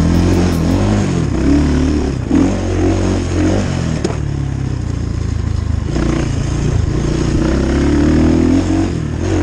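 Dirt bike engine running under load, its pitch rising and falling again and again as the throttle is worked.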